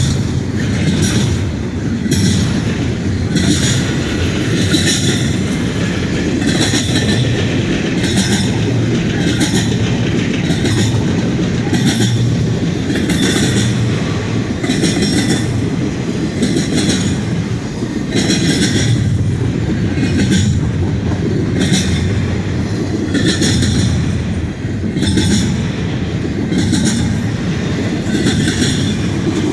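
CN intermodal freight train rolling past up close: a steady low rumble of the cars, with the wheels clacking over the rail joints in a regular repeating beat and a little wheel squeal.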